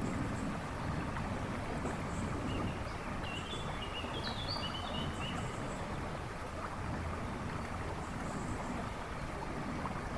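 River rushing and babbling over stones, a steady churning wash of water. A bird twitters briefly in the background a few seconds in.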